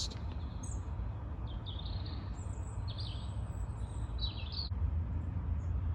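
Small birds calling: several short, high chirps scattered over a few seconds, over a steady low rumble.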